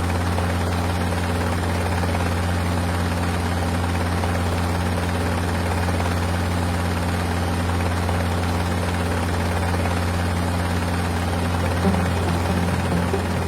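Mil Mi-26 heavy-lift helicopter running steadily, its twin turboshaft engines and rotor making a constant loud low hum over a rushing noise.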